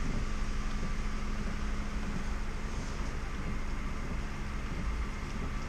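A vehicle engine running with a steady low drone and hum, with no change in speed or pitch.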